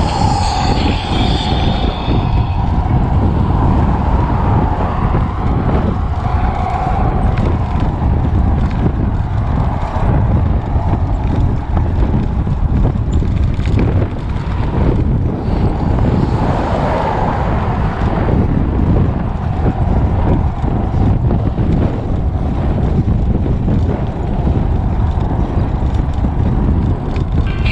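Wind buffeting the microphone of a camera riding along on a moving bicycle: a loud, steady rumble that flutters slightly from moment to moment.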